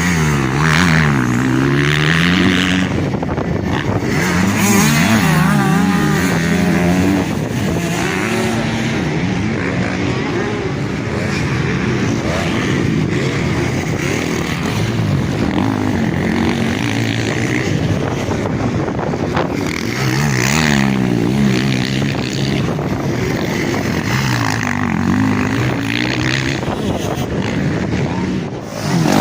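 Motocross bikes racing, their engines revving up and falling back again and again as they accelerate, shift and brake, with several bikes overlapping.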